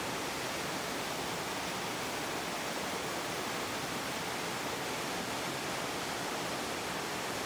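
Steady rushing water: an even, unchanging roar.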